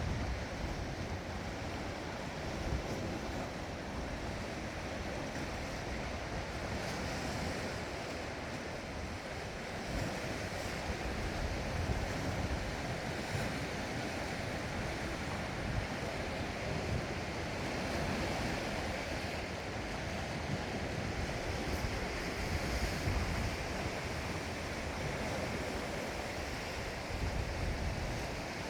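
Sea waves washing on the shore, a steady rushing wash, with wind buffeting the microphone in low gusts.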